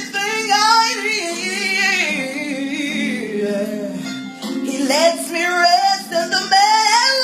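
A woman singing a gospel song in long, wavering held notes over steady accompaniment chords, with a short break about four seconds in.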